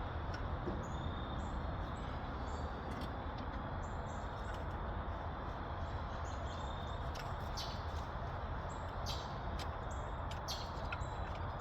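Small birds chirping repeatedly over a steady outdoor background hiss and rumble, with a few sharp clicks in the second half.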